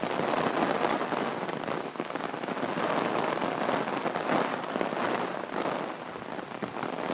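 Steady rain falling, with many fine patters of drops hitting surfaces close to the microphone.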